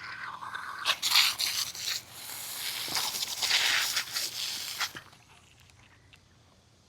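Garden hose spraying water, a hissing splatter in two surges that stops about five seconds in.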